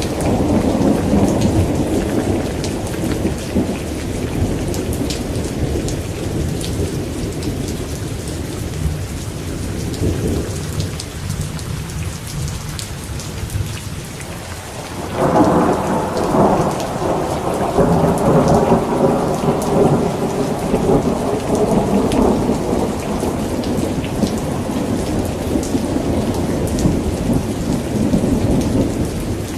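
Steady rain with thunder. A rumble fades in the first few seconds, then a loud thunderclap breaks about halfway through and rolls on for several seconds before dying away.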